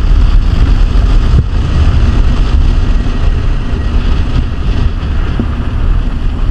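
Loud, steady rush of vehicle and wind noise with no clear engine note, easing slightly before cutting off abruptly at the end.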